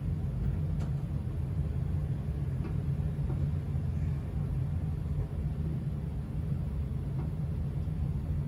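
1984 Casablanca Delta ceiling fan running with a steady low motor hum, with a few faint ticks.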